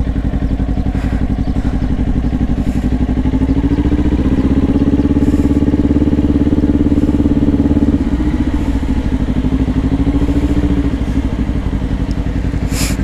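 Kawasaki Ninja 400's parallel-twin engine running at low revs under light throttle. The engine note rises a little about three seconds in, holds, and eases back down near the end.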